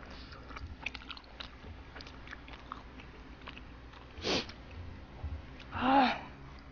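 Close-miked chewing of rice cake soup, with small soft clicks and wet mouth noises. About four seconds in there is a louder, short breathy noise, and near the end a brief hummed voice sound.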